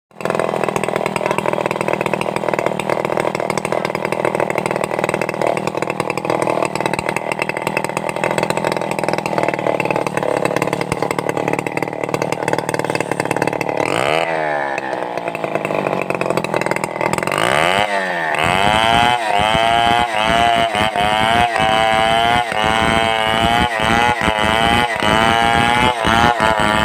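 Petrol chainsaw ripping timber into boards, running steadily under load. About 14 seconds in, the engine speed drops and rises again. From about 18 seconds the revs swing up and down quickly, about twice a second.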